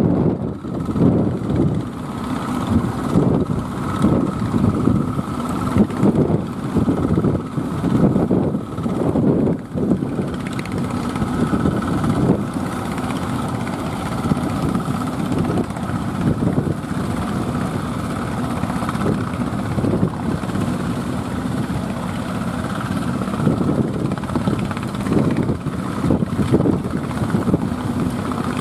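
Strong wind buffeting the microphone in gusts, most uneven in the first ten seconds and steadier after.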